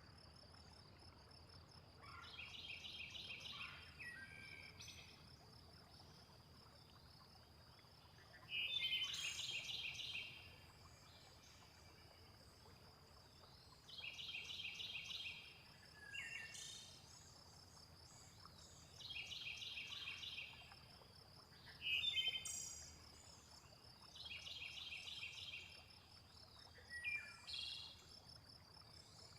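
A steady high-pitched cricket trill, with bird chirps over it: a rattling trilled call about every five seconds alternating with short falling chirps, repeating in a regular loop.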